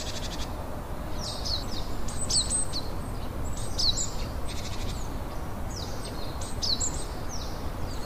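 Small birds chirping: quick high falling chirps in repeated clusters, over a steady low background noise.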